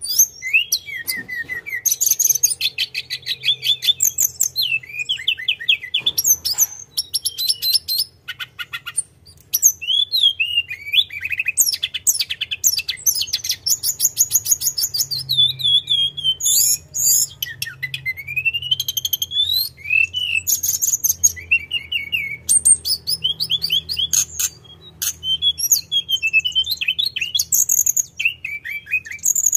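Tledekan gunung songbird singing vigorously and almost without a break: a rapid, varied, rolling song of fast trills, repeated high notes and rising and falling whistles, pausing only briefly.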